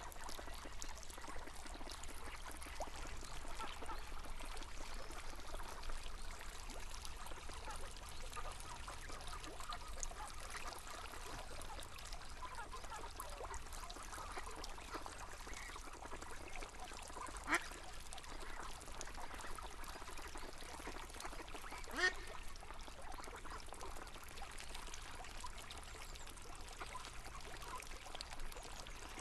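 River water running steadily, with ducks quacking now and then. Two brief sharp sounds stand out past the middle.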